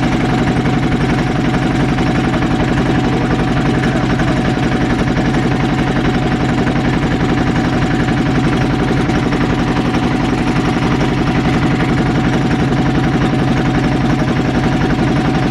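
Motorboat engine running steadily at an even pitch, heard from on board the boat.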